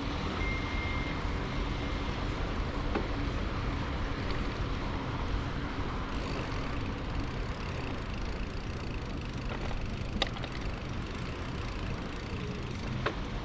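Steady wind and rolling noise from a bicycle being ridden, with three sharp clicks and a brief high tone near the start.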